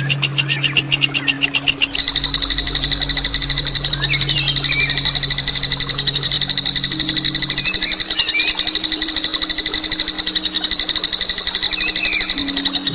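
A songbird singing a long, rapid rolling trill of high, sharp notes repeated about ten times a second without a break, with fainter chirps from other birds behind it.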